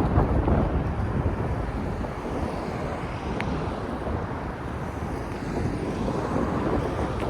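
Wind noise on the microphone of a bicycle moving at speed: a steady low rushing noise with no engine tone.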